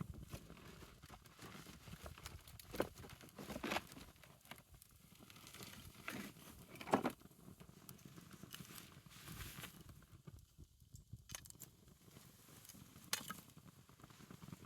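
Wood fire crackling, with scattered sharp pops; the loudest pop comes about seven seconds in.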